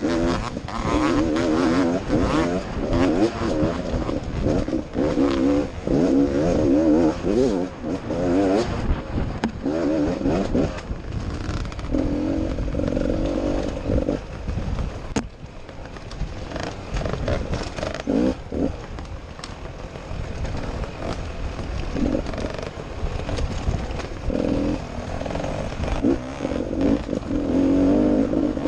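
Enduro dirt bike engine heard close up from an onboard camera, revving in repeated bursts as the throttle is opened and closed over rough ground. It eases off through the middle, then is pushed hard again near the end.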